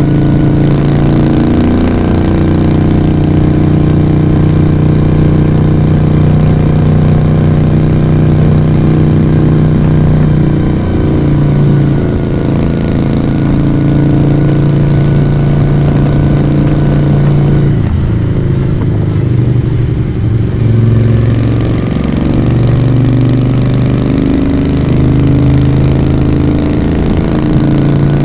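Moto Guzzi V35's V-twin engine and exhaust running steadily under way. About two-thirds through the note eases off briefly, as if the throttle closes, then picks up again.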